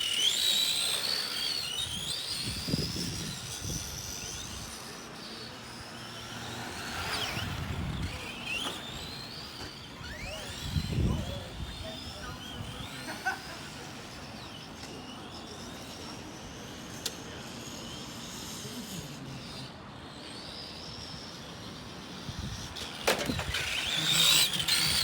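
Electric motors of 1/14-scale Tamiya Euro RC racing trucks whining around the track, the pitch rising and falling as several trucks speed up and slow down. A few low thumps come through now and then.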